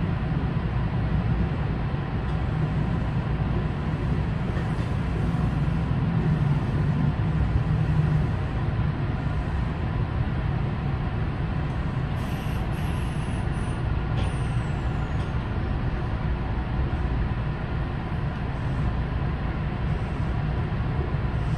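Kintetsu 9020 series electric train heard from the driver's cab, running at low speed: a steady low rumble of wheels on rail. About halfway through come brief high squeals that fall in pitch.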